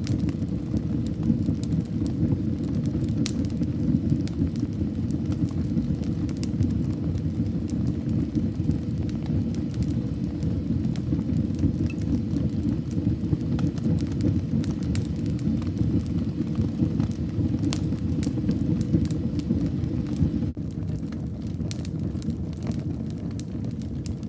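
Fire burning in a fireplace: a steady low rumble of flames with frequent scattered crackles and pops.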